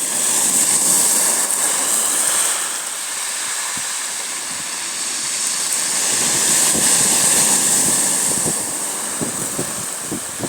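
Waves washing onto the shore of a bay, a rushing surge that swells twice, with short ticks near the end.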